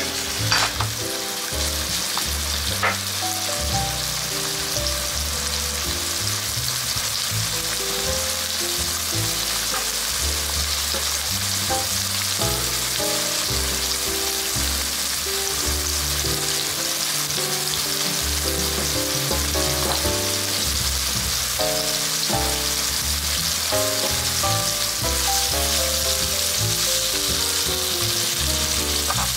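Chicken thigh and sliced garlic frying in oil in a frying pan over a low gas flame: a steady, even sizzle. Background music with stepped notes plays underneath.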